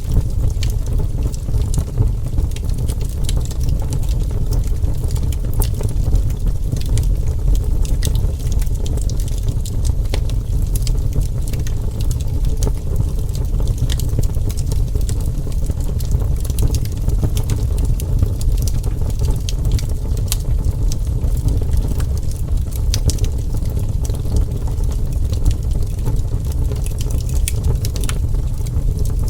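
Burning wood fire crackling steadily: a low rumble of flames under many sharp, irregular pops and snaps.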